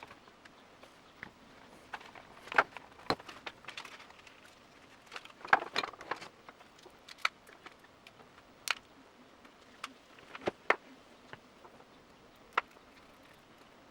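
Scattered, irregular clicks and knocks of plastic motorcycle bodywork and small parts being handled and fitted during reassembly of the front cowl, with a couple of short clusters of rattling.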